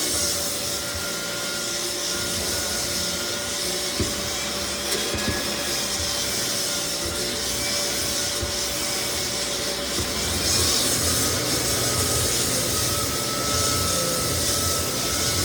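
Lagler Flip belt floor sander running steadily as it sands white oak flooring, with a steady motor hum under a wide hiss of abrasive and dust extraction. The boards are cupped, and the sanding levels them flat.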